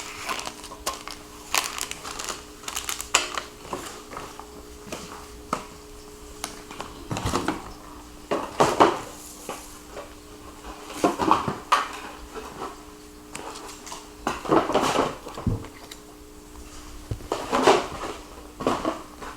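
Plastic kit parts and packaging being handled and unpacked: irregular clicks, rattles and rustles, with a faint steady hum underneath.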